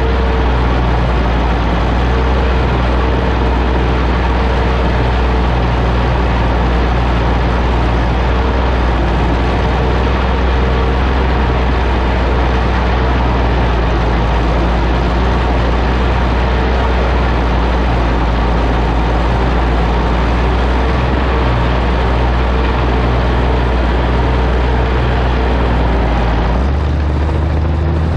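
Oliver OC-6 crawler tractor's engine running steadily under way. Near the end the engine note changes and the sound gets a little less busy.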